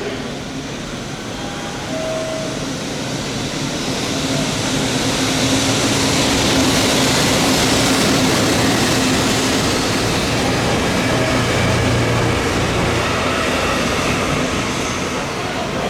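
Train passing through a station: an EF65 electric locomotive hauling new HB-E220 series railcars. The steady rumble of wheels on rail swells over the first few seconds, holds loud, then eases off slightly near the end, with a steady low hum underneath.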